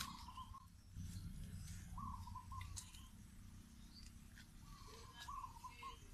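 Faint bird calls: three short, wavering chirping phrases spaced a couple of seconds apart, over a steady low rumble.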